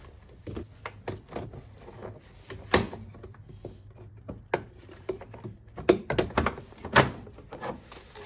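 Irregular clicks and knocks of hand work in a car's engine bay, tools and plastic or metal parts being handled, with sharper knocks about three, six and seven seconds in.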